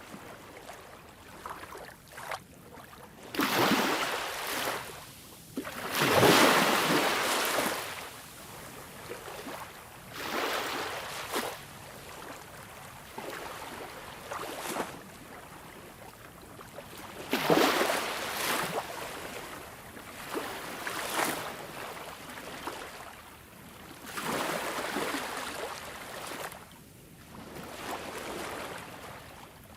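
Ocean waves breaking and washing in, a steady hiss of surf that swells up and falls back every few seconds, with the biggest waves about six seconds in and again at about seventeen seconds.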